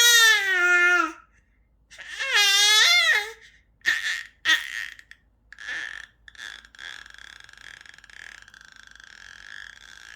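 A six-month-old baby vocalizing: two long high-pitched squeals in the first three seconds, then a few short vocal sounds, and a quieter drawn-out strained sound through the second half.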